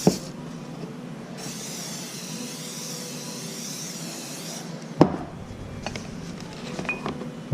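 Hands working metal excavator parts: a sharp knock at the start and another about five seconds in, a few light ticks near the end, over a steady hiss.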